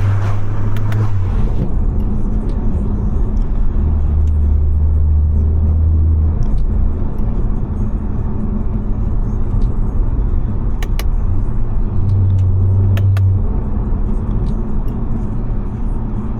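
Tuned BMW 540i's B58 turbocharged inline-six and its tyres on a wet road, heard from inside the car while driving. A low drone swells and fades three times.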